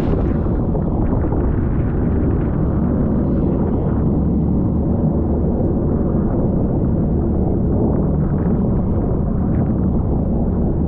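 Jet ski engine running steadily under way, a low drone holding an even pitch.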